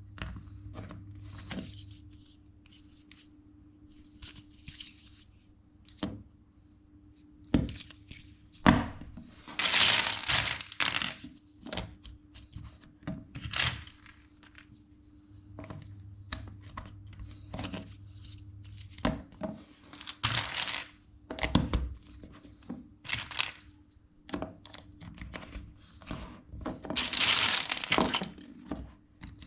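Plastic LEGO bricks being handled and pressed together: scattered sharp clicks and taps, with two longer rustling stretches, one about ten seconds in and one near the end.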